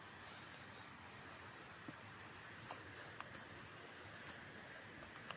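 Faint, steady chorus of insects in forest, a constant high-pitched drone, with a few soft ticks scattered through it.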